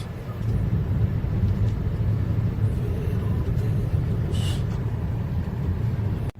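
Car driving along: steady low engine and road rumble, louder from about half a second in, cutting off suddenly near the end.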